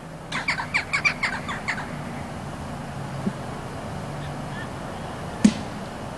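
A bird calls in a quick run of about eight harsh notes near the start. Later, one sharp thud as a football is kicked on grass.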